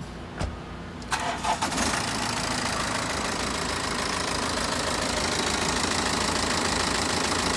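2017 BMW X5's engine starting about a second in, cranking briefly and catching, then idling steadily, started so the A/C system can be regassed.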